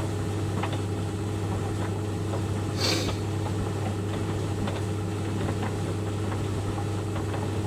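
White Knight 38A compact tumble dryer running with a steady motor hum. A brief swish is heard about three seconds in.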